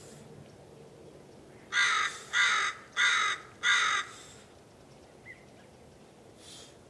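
A bird calling four times in quick succession, each call about half a second long and evenly spaced.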